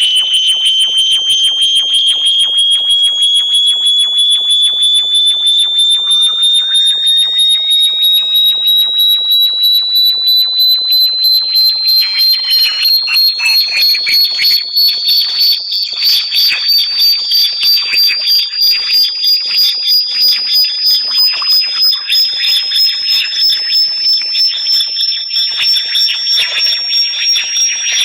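Synthesized high-pitched electronic tone used as a bat-repellent sound. It pulses rapidly and evenly, and its pitch climbs slowly and steadily.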